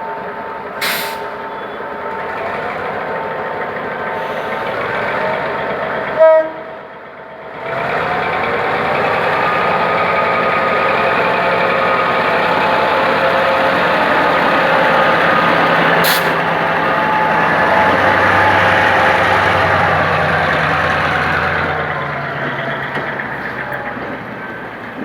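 GM G22W diesel-electric locomotive's EMD 645 two-stroke diesel idling, then powering up loudly with a deep, layered engine note as it pulls a passenger train away, easing off near the end. About six seconds in there is a single short, loud blast, the loudest moment, and two brief hisses of air come about a second in and again midway.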